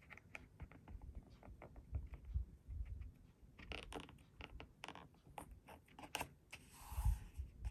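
Faint, irregular small clicks and taps with soft thumps from handling paper journal pages and washi tape, with a short rustle about seven seconds in.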